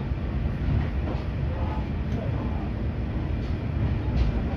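Riding inside a Tadami Line diesel railcar as it runs along the track: a steady low rumble of engine and wheels, with a few sharp clicks from the rails.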